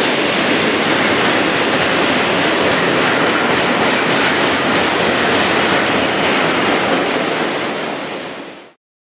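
A double-stack intermodal container train of well cars rolling past: a steady noise of wheels running on the rails with some clickety-clack. It fades out about a second before the end.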